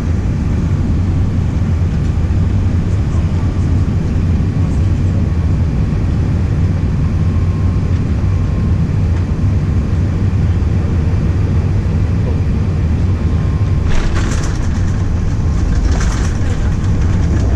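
Airbus A380 landing: a steady low rumble of engines and airflow, with two short bursts of rattling near the end.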